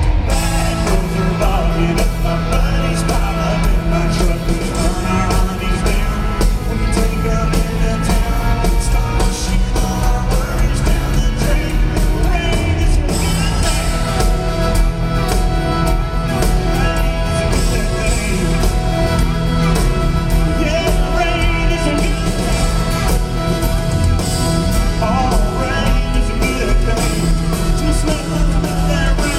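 Live country-rock band playing through a concert sound system: drums, bass and guitars, loud and continuous, with some singing over the music.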